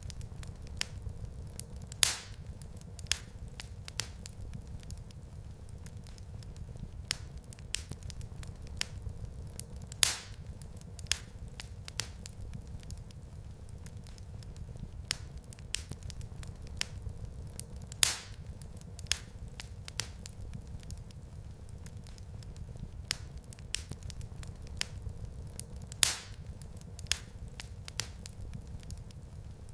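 Wood fire crackling in a fireplace: a steady low rumble of flames under frequent small snaps, with a louder pop about every eight seconds.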